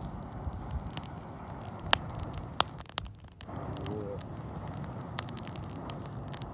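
Wood campfire crackling, with scattered sharp pops and snaps over a steady rushing noise that drops out briefly just after three seconds in.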